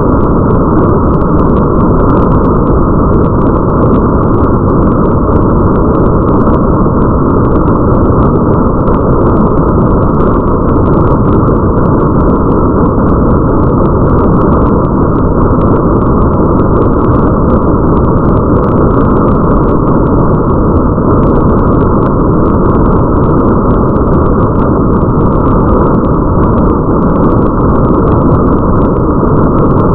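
Muffled rain ambience: a loud, steady noise with the high end cut away, and faint scattered drop ticks above it.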